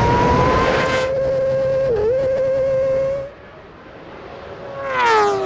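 Motorcycle engine running loud at steady high revs, with a brief dip in pitch about two seconds in. It cuts off abruptly after about three seconds, and near the end a falling engine pitch comes in loud, as a bike passes or eases off.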